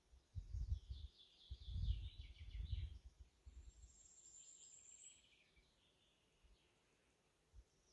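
Songbirds singing: rapid trilled phrases that fall in pitch, and a thin high note. Low rumbling bumps on the microphone in the first three seconds are the loudest part.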